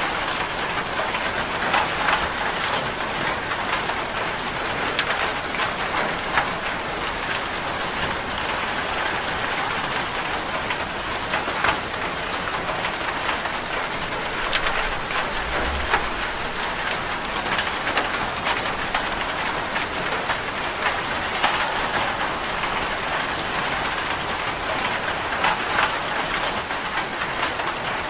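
Steady rain falling on a surface: an even hiss with scattered sharp ticks.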